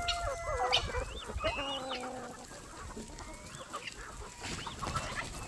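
Chickens clucking and calling, several birds overlapping, busiest in the first couple of seconds and again near the end.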